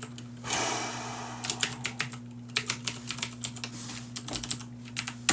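Computer keyboard typing in irregular bursts of key clicks, over a steady low electrical hum, with a brief soft hiss about half a second in.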